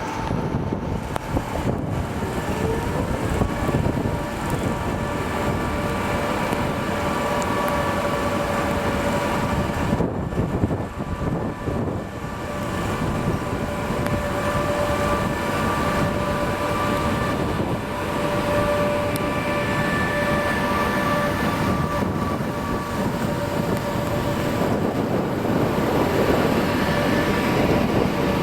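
A train running through the station without stopping: a steady loud rail rumble with a steady high whine held over it.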